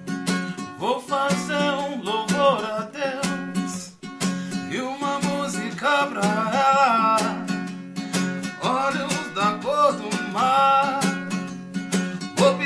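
Acoustic guitar strummed in an even reggae rhythm. From about a second in, a man's voice sings a wordless melody over it in several phrases.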